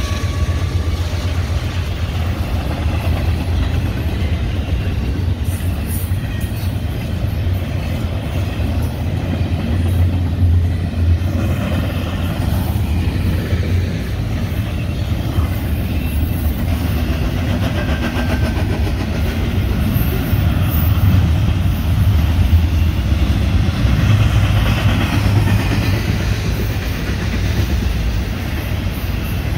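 Intermodal freight train's container-laden well cars rolling past, a steady noise of steel wheels on rail that stays loud throughout.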